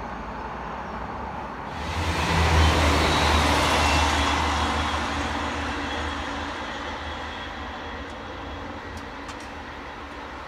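Two-car diesel multiple unit passing close by. Its engine drone and wheel noise come in suddenly about two seconds in, are loudest for a couple of seconds, then fade slowly as it runs away down the line.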